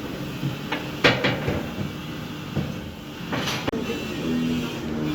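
Sharp knocks and clanks over the steady hum of running machinery: two close together about a second in, and a louder one about three and a half seconds in.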